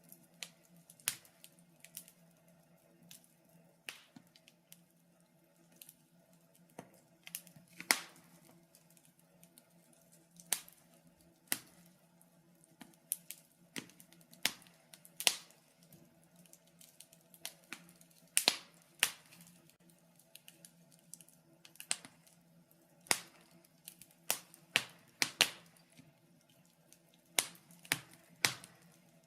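Wood fire in a fireplace crackling: irregular sharp pops and snaps, some loud and some faint, over a faint steady low hum.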